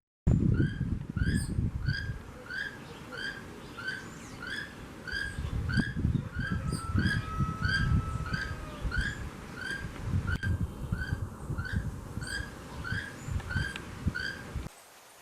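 A barbet calling: a long series of short, hooked notes repeated evenly, about three every two seconds, over low rumbling noise on the microphone. It stops abruptly near the end.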